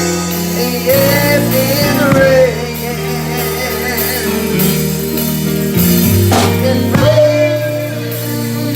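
Gospel church music: sustained chords over a bass line, with a voice singing and wavering over them near the start and again about seven seconds in.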